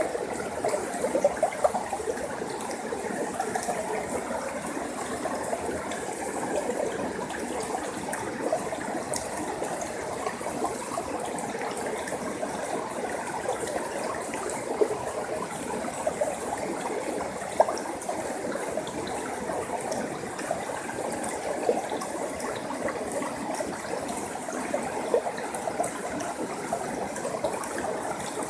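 Small forest stream flowing steadily over rocks, a continuous babble with scattered little splashes and drips.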